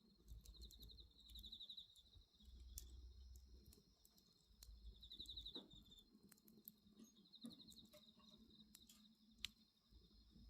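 Faint crickets chirping in short pulsed trills, three bursts in all, over the sparse crackles and pops of a wood bonfire.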